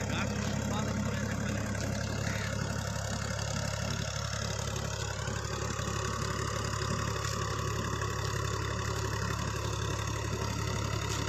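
Universal 533 tractor's diesel engine running at a steady, unchanging speed while puddling a flooded field.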